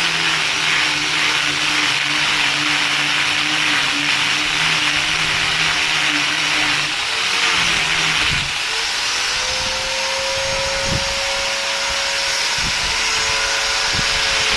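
A machine running steadily with a hissing whir and a low hum. About halfway through its pitch changes to a higher steady tone, and several knocks follow near the end.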